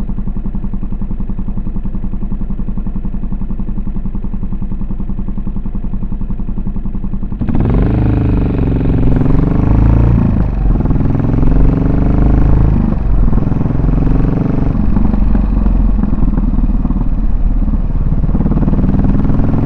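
Yamaha SR400's single-cylinder four-stroke engine idling with an even pulsing beat, then, after an abrupt change about seven and a half seconds in, running louder under way, its pitch rising and dropping several times with throttle and gear changes.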